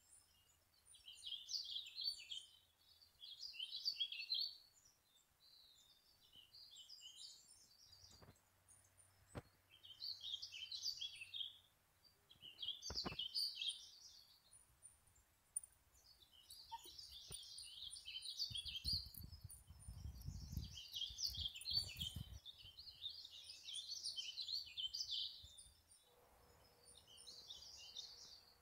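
Small birds chirping and twittering in repeated short bursts of high notes. A few sharp knocks come in the first half, and a brief low rumble comes about two-thirds of the way through.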